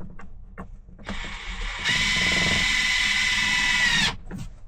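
Power drill running for about three seconds, driving a screw into the camper cabinetry. It starts softly, runs louder with a steady high whine from about two seconds in, then cuts off suddenly. A few light clicks come just before.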